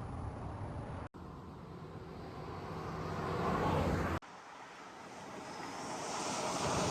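Road traffic noise: vehicles approaching and growing louder, heard in three short clips that cut off abruptly.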